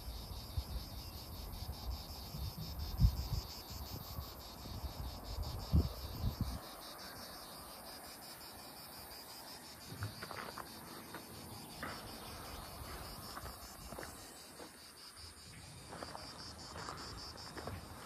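Steady chirring of summer insects, a continuous high, finely pulsing buzz. For the first six seconds a low rumble with a few thumps runs under it.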